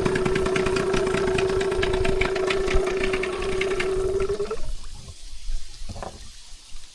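Fishing reel being cranked: a steady whirring with fast clicking that cuts off about four and a half seconds in, followed by faint handling sounds.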